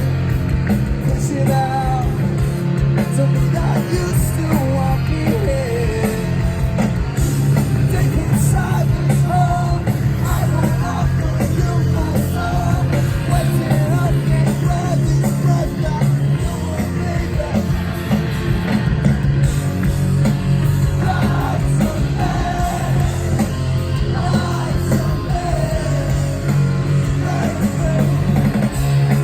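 Live rock band playing loud and continuously, with a singer's melody carried over guitars, bass and drums.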